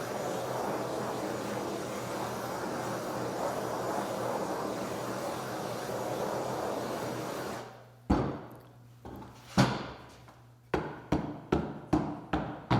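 A hand torch running with a steady hiss as it heats the glued wood covering, cutting off about seven and a half seconds in. Then a series of sharp wooden taps, sparse at first and then about two or three a second, as the heated covering is patted down with a small piece of wood.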